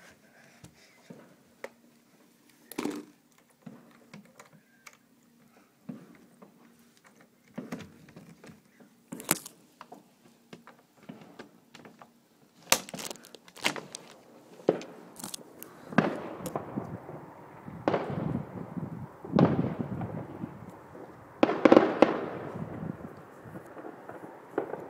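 Neighbourhood fireworks going off: scattered cracks and pops at first, then, from about two-thirds of the way in, a run of louder bangs, each followed by a rumble, the loudest near the end.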